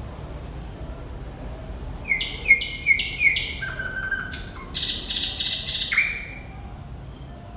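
Thrush nightingale singing one phrase: about two seconds in, four sharp, loud repeated notes, then a lower held whistle and a fast dry rattle, ending in a last note about six seconds in.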